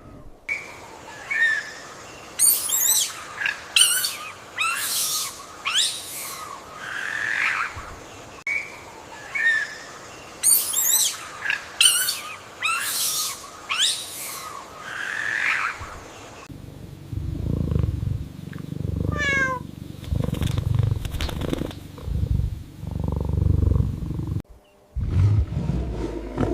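Animal sounds: two clusters of short, sharp, high-pitched calls, then a low rumbling growl from about sixteen seconds in.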